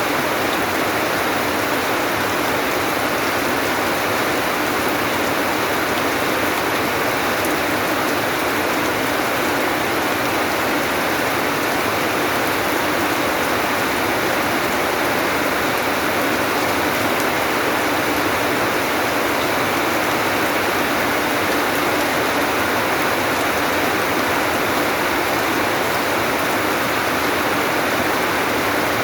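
Steady rain falling, a dense, even hiss that holds at the same level throughout.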